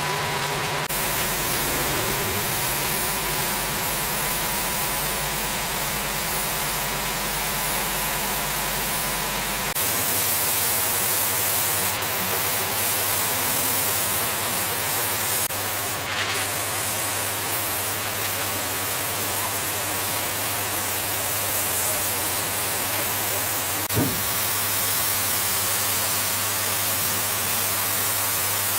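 A steady, loud hiss like a spray, over a low motor hum whose pitch shifts about ten seconds in; a single knock near the end.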